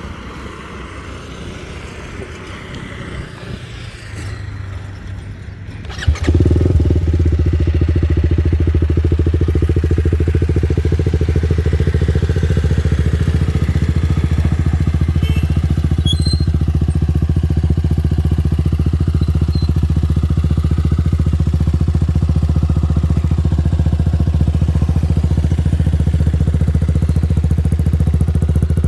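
TVS Apache RR310's single-cylinder engine, breathing through an aftermarket Yoshimura R77 free-flow full-system exhaust, starts with a sharp bang about six seconds in and then idles steadily and loudly.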